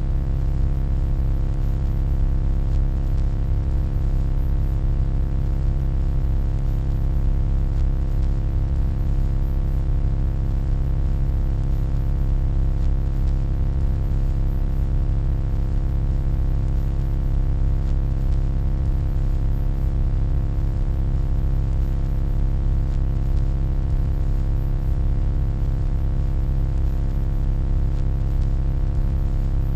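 Continuous electronic hum: a deep, even low rumble with a stack of steady tones above it, unchanging throughout.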